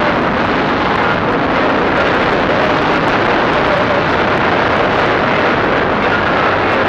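Chinese 250 cc dirt bike engine running steadily under a dense, even rushing noise, with no change in level.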